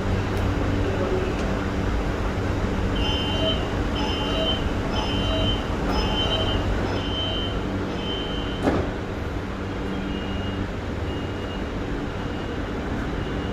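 Electric commuter train hum at the platform, steady and low-pitched, with a high electronic beep repeating about once a second for several seconds. A single sharp clunk comes near the middle, and fainter, shorter beeps follow at the same pace.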